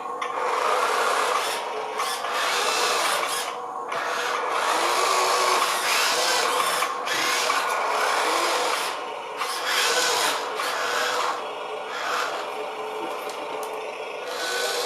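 Huina toy-grade RC fire truck working its small electric motors and plastic gears: a loud grinding whir that starts and stops in spurts, easing off in the last few seconds.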